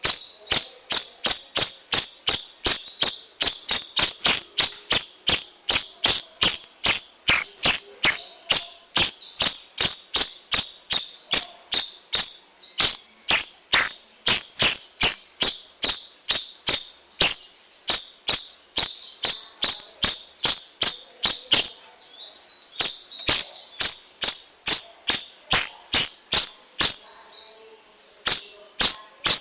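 Cucak rawis bird calling: a fast, steady series of sharp, high chipping notes, about three a second, with two short breaks in the second half.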